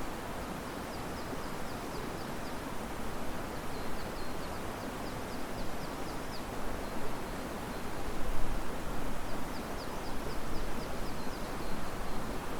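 Steady rush of river water mixed with wind through riverside trees. A small bird gives a rapid high trill of short repeated notes three times over it.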